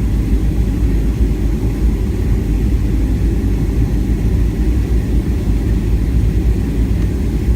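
Steady low rumble of a Boeing 737-700's engines and airflow, heard inside the passenger cabin while the jet descends on approach.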